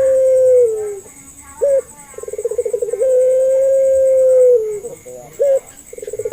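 A puter pelung (Barbary dove) cooing over and over. Each call is a quick stuttering run of notes that runs into one long held coo; the coo drops in pitch at its end and is followed by a short rising note. A new call starts about every three and a half seconds.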